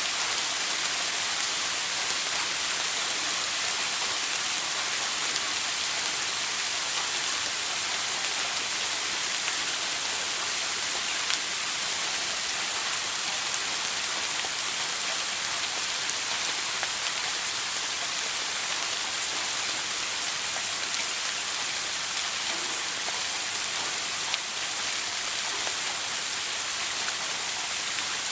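Shower water spraying steadily: an even, hissing rush of falling spray with a few faint ticks of droplets.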